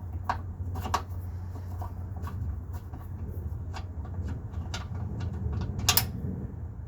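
Hand tools clicking and clinking against metal as an engine mount and its bolts are taken back out, a handful of separate sharp clicks, the loudest near the end, over a steady low rumble.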